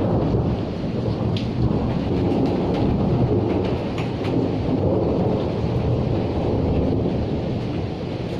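A long low roll of thunder over steady rain, with scattered raindrops ticking sharply on top.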